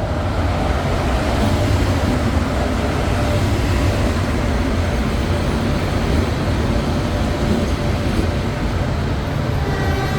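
Passenger train running along the track: a loud, steady rumble and rush of wheels on rails. Near the end a steady pitched tone starts up over it.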